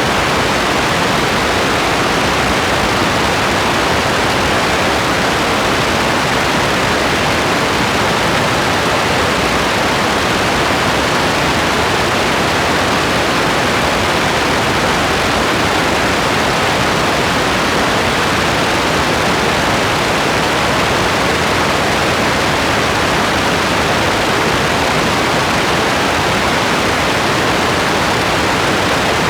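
Steady rain, an even hiss with no break or change in level.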